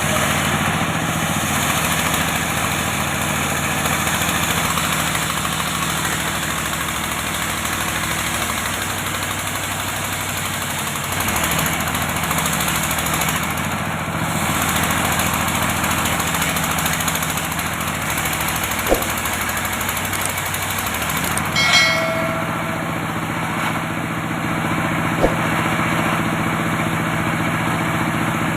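Antique engine-driven circular saw running steadily, a constant engine drone under a dense mechanical whir. There are a couple of brief knocks and a short squeak about three-quarters of the way through.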